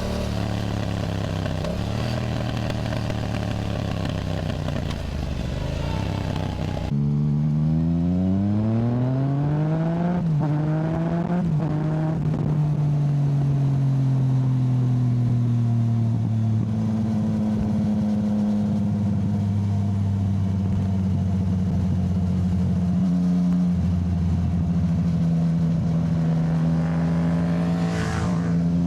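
Yamaha motorcycle engine on the road, running steadily with wind noise, then about seven seconds in pulling hard with rising pitch through a gear change before settling into a long steady cruise. Near the end it revs up briefly again.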